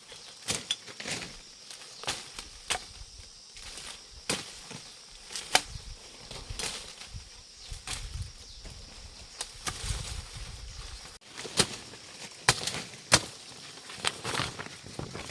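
Machete strokes hacking through brush and undergrowth: sharp, irregular chops, about one a second, some louder than others.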